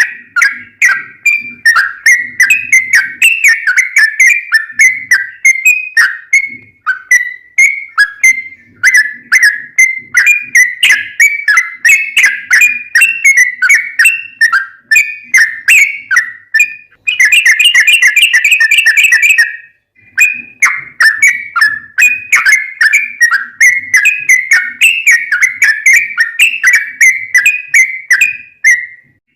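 Yellow-vented bulbul (trucukan) singing a long, fast 'ropel' song: an unbroken run of short chirping notes, several a second. About two-thirds of the way through comes a dense trill of a couple of seconds, then a brief pause before the notes resume.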